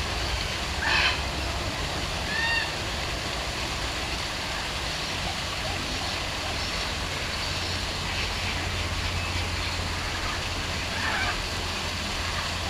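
A few short bird calls, about a second in, again at two and a half seconds and once more near the end, over a steady rushing hiss and a low hum.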